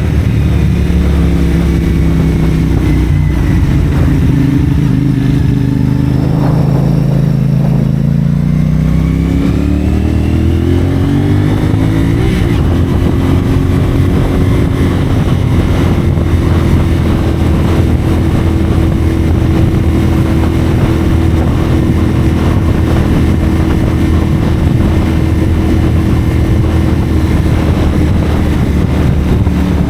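CFMoto 450SR's parallel-twin engine running through a Yoshimura AT2 slip-on exhaust while riding. It holds low, steady revs at first, then the pitch rises as it accelerates from about eight to twelve seconds in. It then cruises at steady, higher revs and eases off slightly near the end.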